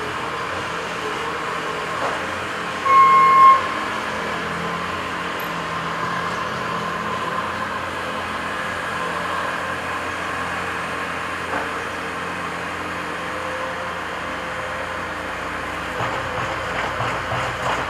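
Diesel engines of earthmoving machines running steadily while a dump truck is loaded. About three seconds in there is one short horn toot of about half a second, and near the end a few knocks and clunks.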